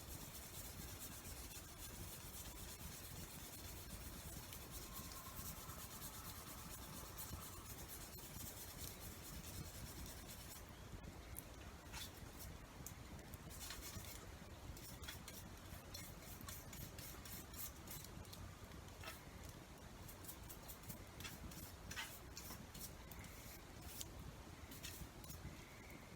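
Faint rubbing and scraping of a hand tool being cleaned or sharpened. Many short sharp clicks come in from about ten seconds in, over a steady hiss.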